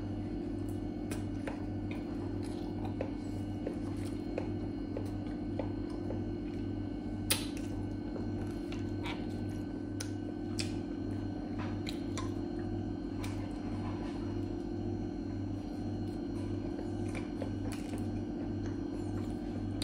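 Close-up chewing and mouth sounds of a man eating pizza, with scattered small clicks and a sharper click about seven seconds in. Under it runs a steady low hum that pulses about twice a second.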